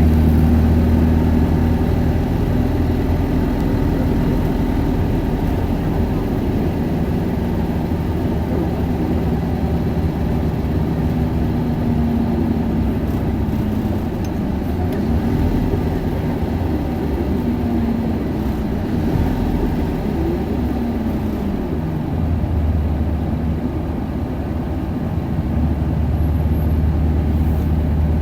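Isuzu Erga city bus's four-cylinder diesel engine and drivetrain running on the road, heard from inside the cabin as a loud, steady low drone. Through the middle the deep drone falls away while a whining tone glides up and down, and about three-quarters of the way through the drone comes back as the bus pulls again.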